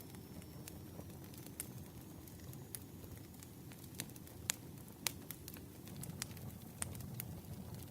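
Campfire burning: a steady low rumble of flames with scattered sharp crackles and pops from the burning wood, the loudest pair about halfway through.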